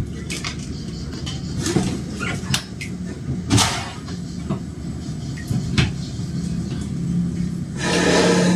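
Washing machine running with a steady low hum, punctuated by irregular knocks and thumps as the machine shakes and bangs. A louder rushing noise swells near the end.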